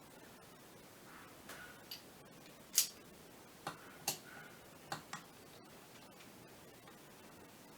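Scattered light clicks and taps of metal parts and hand tools being handled during reassembly of a clutch actuator, about seven irregular ticks with the sharpest one near the middle.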